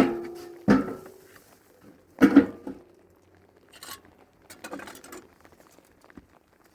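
Metal pots and dishes being handled: a few sharp clanks that each ring briefly. The loudest come at the very start and a close pair about two seconds in, followed by lighter knocks.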